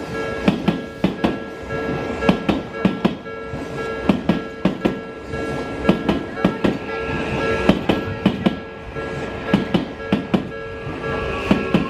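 An Odakyu Line commuter train passes over a level crossing, its wheels clacking over the rails in a quick, regular run of knocks. Under it, the crossing's warning bell rings with a steady tone.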